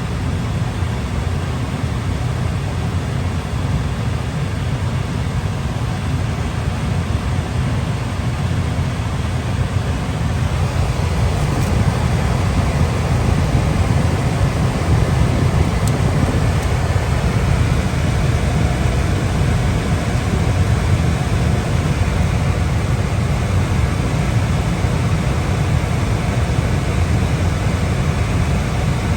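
Carrier gas furnace running: a steady rush of air and combustion noise, heavy and low, growing louder about eleven seconds in.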